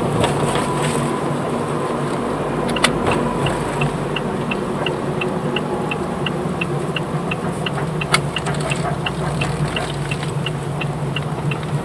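Car driving with a steady drone from a worn front wheel hub bearing, the abnormal noise that was traced to that bearing. A faint high tick repeats about three times a second, and two sharp knocks come about three and eight seconds in.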